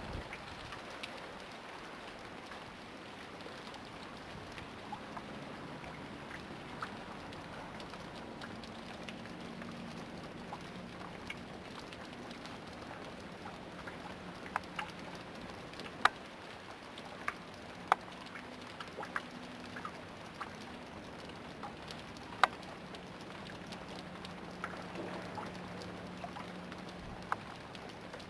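Freezing rain pattering steadily, with scattered sharp snaps and cracks from ice-laden tree branches, most of them in the second half. A faint low hum runs under it through the middle.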